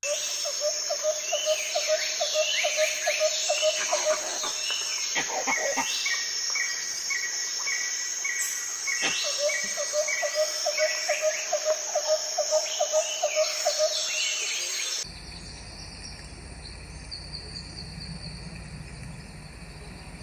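Wild birds calling and chirping over a steady high insect buzz, with a quick repeated call running for several seconds at a time. About 15 seconds in, the sound cuts to a quieter ambience.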